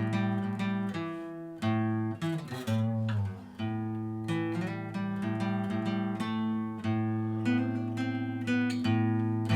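Acoustic guitar strummed in a steady rhythm, chord after chord, with a brief break in the strumming around the third second.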